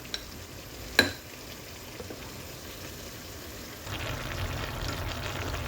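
Corn flour being stirred into a cup of water with a spoon: a sharp clink about a second in, with smaller ticks, over a steady noise that grows louder about four seconds in.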